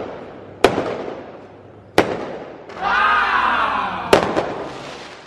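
Aerial fireworks going off: three sharp bangs, each trailing off in an echo. Between the second and third bang comes a drawn-out sound that rises and falls in pitch.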